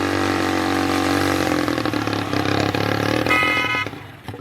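Tractor engine running steadily at an even speed. About three seconds in there is a brief high-pitched tone, and then the sound drops away sharply near the end.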